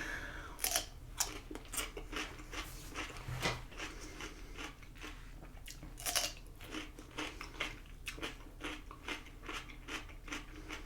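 A person chewing crunchy food close to the microphone: a run of irregular, crisp crunches, with louder bites about a second in and about six seconds in.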